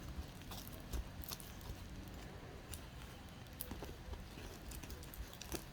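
Slime being stirred in a bowl with a mixing tool: faint, irregular small clicks and taps with soft sticky squishing. The glue mixture is being worked with a contact-solution and baking-soda activator until it sets into slime.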